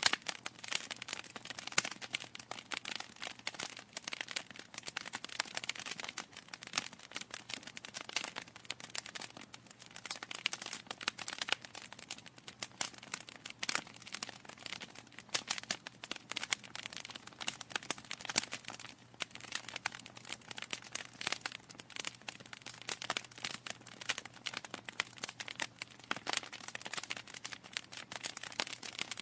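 Wood fire burning in a fireplace, logs crackling with a steady stream of small pops and snaps and now and then a louder pop.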